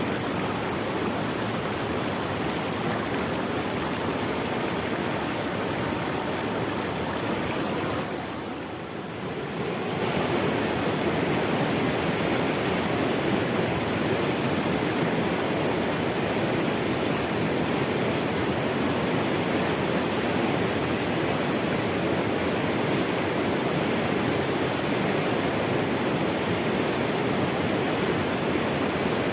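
Running water rushing steadily, like a stream or small cascade. About eight seconds in the sound briefly dips and thins, then returns a little louder.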